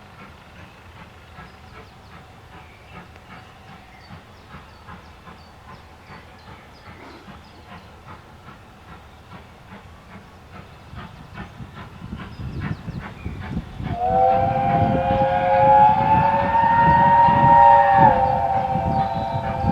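Steam locomotive working a train, its exhaust beats coming at an even rhythm and growing louder as it approaches. About two-thirds of the way in its whistle sounds a long blast of several tones at once, then a shorter blast near the end.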